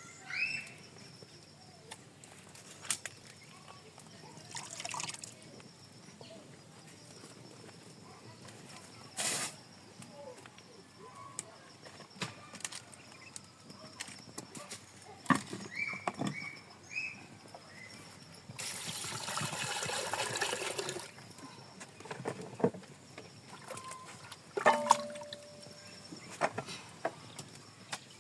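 Water trickling and splashing in short spells, among scattered light knocks and clinks of handling, with a longer pour of a couple of seconds about two-thirds of the way in.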